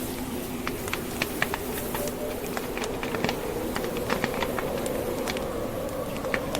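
Burning logs in a fireplace crackling, with many irregular sharp pops, over a steady, faintly wavering blizzard wind.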